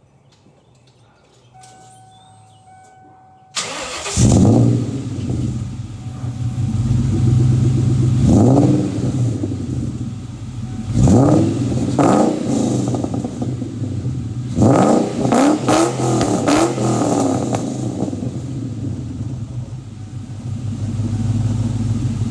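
1998 Mustang Cobra's 4.6-litre DOHC V8 cranking and catching about three and a half seconds in, flaring up and then idling through a freshly installed MagnaFlow Competition series cat-back exhaust. It is revved several times: single blips, then a quick run of three or four blips about two thirds of the way through.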